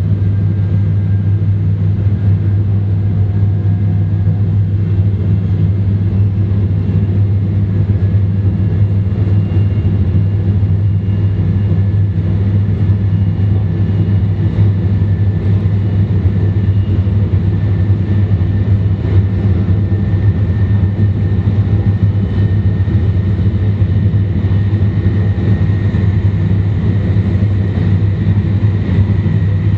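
Interior running noise of an E2 series Shinkansen train, with Mitsubishi IGBT traction equipment, heard from a car's vestibule: a steady, loud, deep rumble with faint high whining tones drifting slowly in pitch.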